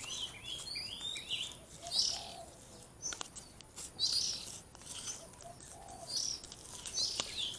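Small birds chirping in quick repeated high calls, with a few louder calls among them and some faint clicks.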